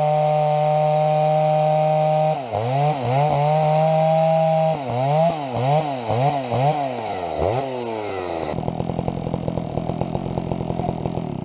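Chainsaw engine running at a steady high rev, then from about two seconds in its pitch repeatedly sags and climbs back as the chain loads up cutting wood. Near the end it drops to a lower, choppier running, and the sound stops abruptly.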